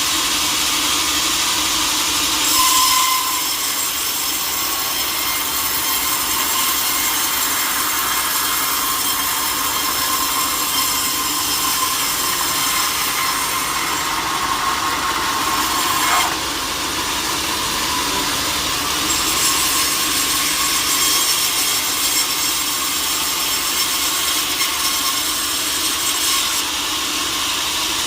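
Sawmill saw running through a teak log, a steady cutting noise that changes abruptly a few times.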